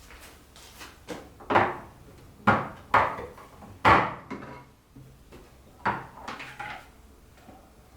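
A series of kitchen knocks and clunks, like cupboard doors and drawers being opened and shut and things set down, the loudest in the middle.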